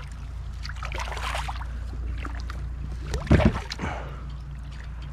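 Handling noises aboard a fishing kayak: a rustle about a second in, then a couple of sharp knocks a little past three seconds, over a steady low hum.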